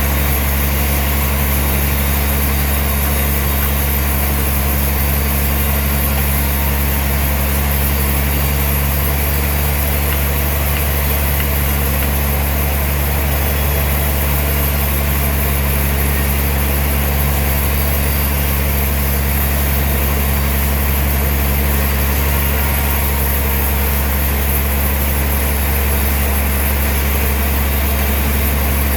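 Heavy sawmill machinery running steadily: a deep, even hum with a constant hiss above it, unchanging throughout.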